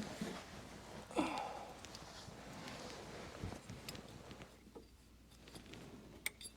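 Faint scattered clicks, knocks and rustles of hands handling parts, with a short louder sound about a second in.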